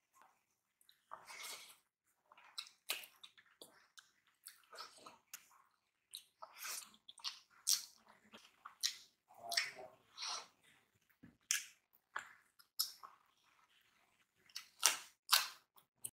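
Close-miked eating sounds as rice and curry are eaten by hand: chewing, wet mouth smacks and squishes of food, coming as short irregular clicks about one every half second to a second, a little louder near the end.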